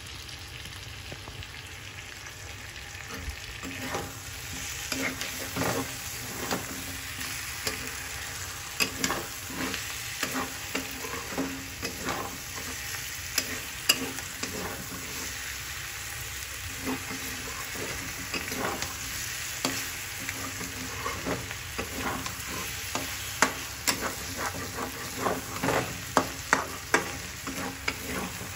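Chicken and sliced onions sizzling in oil in a steel kadhai, with a metal spatula stirring and scraping against the pan. For the first few seconds there is only the steady sizzle; from about four seconds in come frequent sharp scrapes and clicks of the spatula on the metal.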